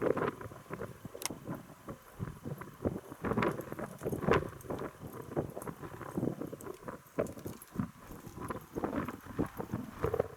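Wind buffeting the microphone: irregular gusty rumbles and crackles, with no steady engine tone.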